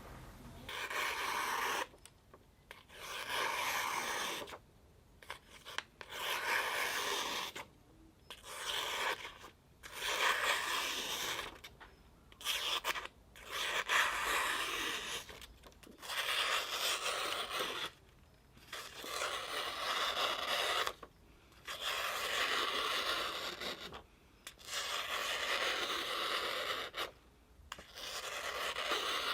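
Knife blade being worked by hand against an abrasive in long, slow scraping strokes, about a dozen of them, each one to two seconds with a short pause between.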